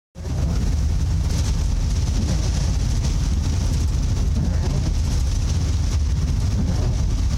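Steady low rumble of a vehicle being driven, with an even high hiss over it, starting just after the first moment.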